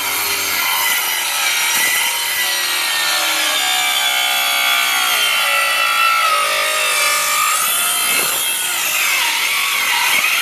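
Hitachi C18DGL 18-volt cordless 6-1/2-inch circular saw cutting through a wooden board, its blade whining steadily through the wood. Near the end the motor's pitch dips and wavers as it labours through a large knot.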